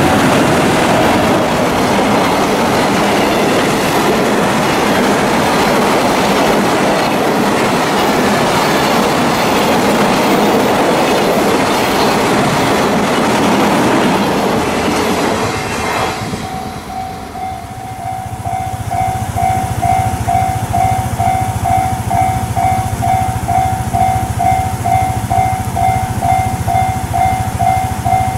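JR Freight EF210 electric locomotive and its container wagons crossing a steel railway bridge: a loud, continuous rumble and clatter of wheels on the rails and girders. About 16 s in the rumble drops away. A regularly pulsing electronic warning tone sets in over a low steady hum as the next train draws near.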